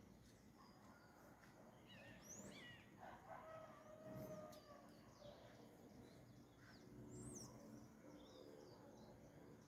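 Faint dawn birdsong: scattered short chirps and whistles from several small birds. A distant rooster crows once, about three seconds in.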